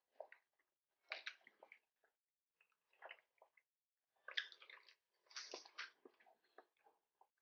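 Chewing and biting on crispy battered calamari rings and shrimp tempura, in short irregular bursts of mouth sounds, the busiest stretch about four to six seconds in.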